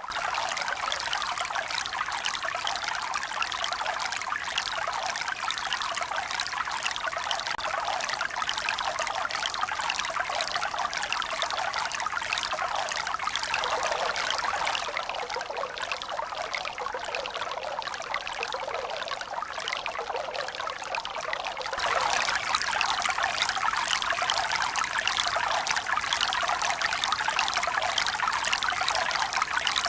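Running water, pouring and trickling in a steady, continuous hiss with no rise and fall of waves. It gets louder and brighter about twenty-two seconds in.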